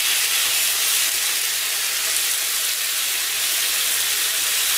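Beef and oyster mushrooms sizzling steadily in a hot frying pan as they are turned with chopsticks. It is an even, unbroken hiss, with the mushrooms giving up their water into the pan.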